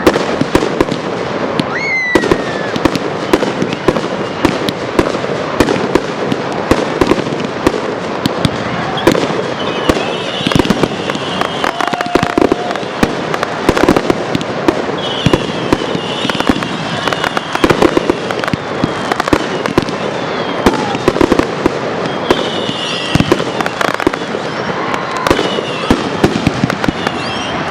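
A fireworks display going off in rapid, continuous succession: dense bangs and crackling shells with no let-up, and a few short high squeals over the top.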